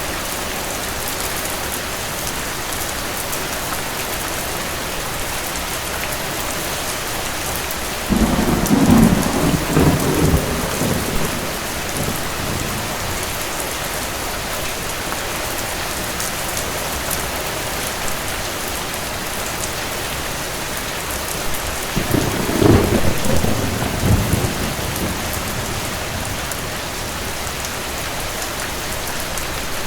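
Steady heavy rain with two rolls of thunder. The first comes in suddenly about eight seconds in and rumbles for a few seconds; a shorter one follows about twenty-two seconds in.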